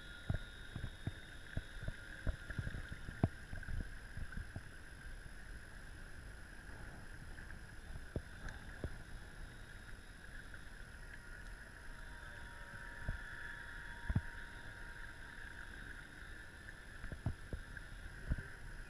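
Radio-controlled model boat's small motor running with a steady whine over the water, with scattered low knocks and thumps.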